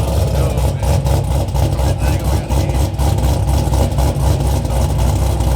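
A car engine running loudly, with a deep, steady low exhaust note and little high sound.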